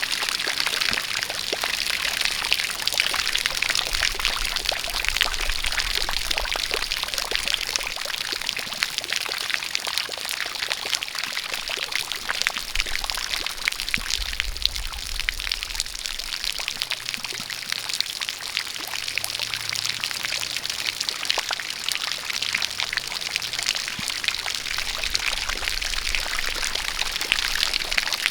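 A jet of water pouring and splashing steadily, with rain falling, a dense even patter of drops.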